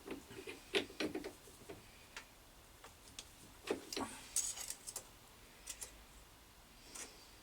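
Scattered light clicks and small knocks of metal handling, from a brass workpiece being set in the lathe chuck with the lathe stopped. The taps are irregular, with a small cluster about four seconds in.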